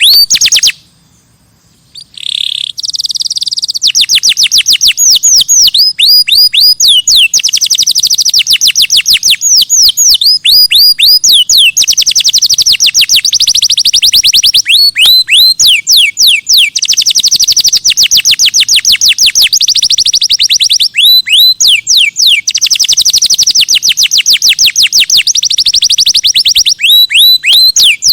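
Songbird singing long, rapid runs of sharply falling whistled notes, many to the second, with brief pauses between runs. It follows a short silence about a second in.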